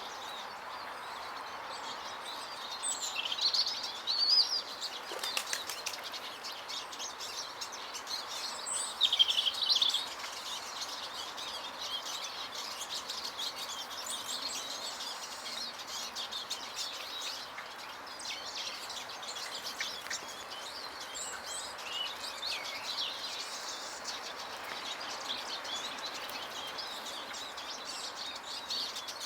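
Small garden birds, tits and finches, chirping and twittering around feeders, with wing flutters over a steady background hiss; the calls are loudest around four seconds in and again around nine to ten seconds.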